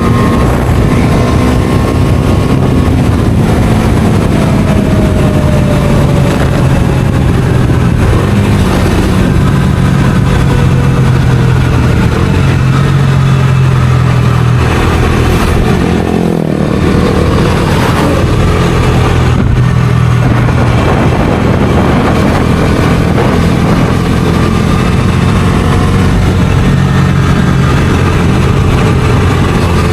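Bajaj Dominar 250's single-cylinder engine running under load while riding, its note rising and falling with the throttle, with a short drop in engine sound about sixteen seconds in, as at a gear change or throttle lift.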